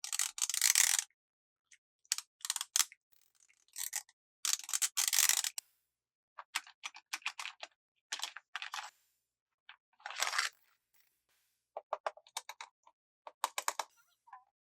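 Plastic toy packaging being handled and opened: short bursts of crisp crinkling and clusters of small clicks, with brief silences between them.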